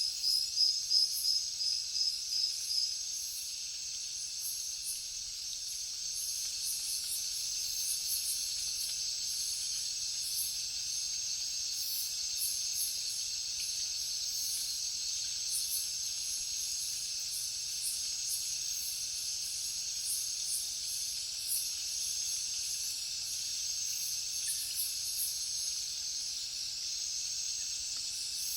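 Insect chorus: a steady high-pitched buzzing with rapid chirps above it, and for the first three seconds a separate chirp repeating about three times a second.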